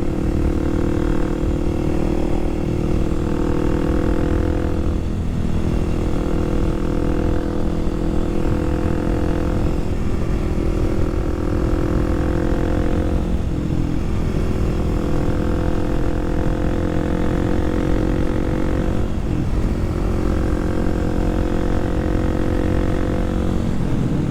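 Kawasaki KLX300SM's single-cylinder engine running at a steady cruise, with its pitch dipping briefly a few times, over a low rumble of wind and road.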